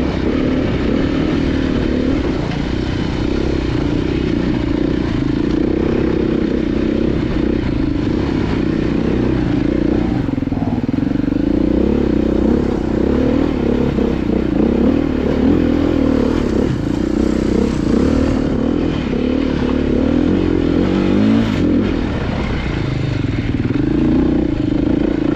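Off-road motorcycle engine running under constantly changing throttle, its pitch rising and falling, with some clatter from the bike over rough ground.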